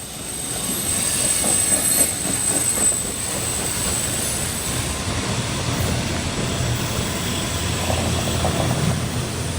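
Norfolk Southern freight train rolling past, a steady rumble of wheels and cars with a thin high-pitched wheel squeal that is strongest in the first few seconds. The sound swells up over the first second.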